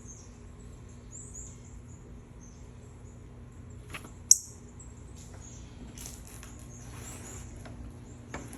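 Faint high-pitched chirps repeating about once a second, with one sharp, very short high click about four seconds in, the loudest sound, and some faint rustling near the end.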